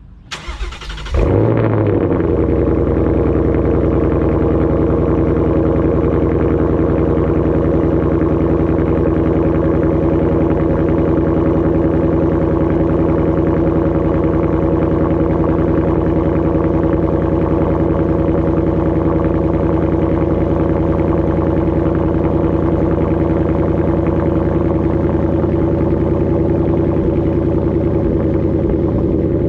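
2018 Ford Mustang GT's 5.0-litre V8 cold-started through a Thermal cat-back exhaust: the starter cranks briefly, the engine catches and flares about a second in, then settles into a steady idle.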